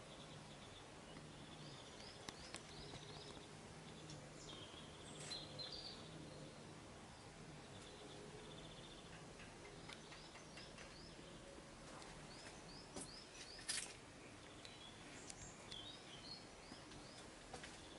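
Faint bird chirps, short notes coming in quick runs of three or four, over a low steady hum, with one sharp click about three-quarters of the way through.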